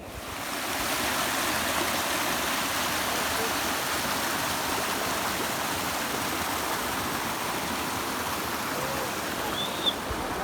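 Steady rush of flowing water in a forest stream, starting abruptly at the beginning and holding even throughout, with a short high chirp near the end.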